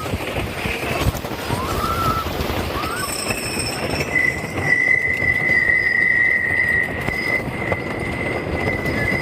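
Roller coaster train running along its track, a steady rumble with a high, even wheel squeal setting in about four seconds in.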